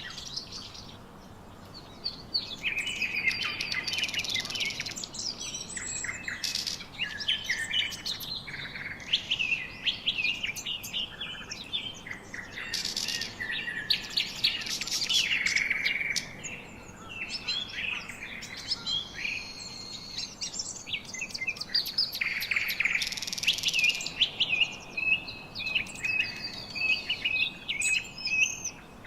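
Several birds chirping and singing at once, a busy chorus of quick high chirps and trills, with a brief lull about a second in.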